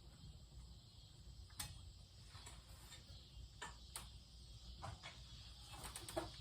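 Faint, scattered clicks and light taps, about half a dozen at irregular intervals, over a low steady room hum.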